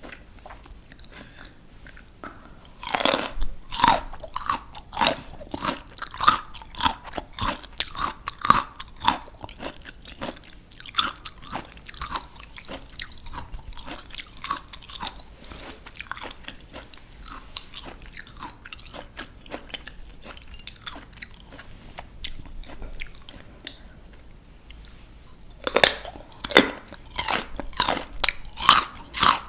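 Raw crunchy vegetables being bitten and chewed. A loud crisp bite comes about three seconds in, then rhythmic crunchy chewing that grows softer, and another bite with fresh crunching near the end.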